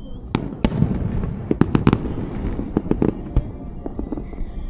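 Fireworks bursting: a rapid string of sharp bangs, densest in the first two seconds and again around three seconds in, over a low rumble.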